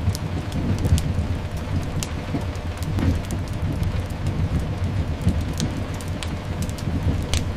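Layered sleep ambience: steady rain with a continuous low rumble underneath, and the sharp crackles and pops of a wood fire now and then.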